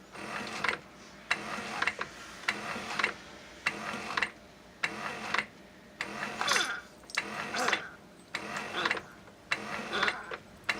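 Keurig K425 coffee maker brewing: its water pump pulses rhythmically, with a sharp click a little under twice a second and a rising hiss about six seconds in. This is the normal sound of a Keurig pushing water from the reservoir through a tube and out through the K-cup pod.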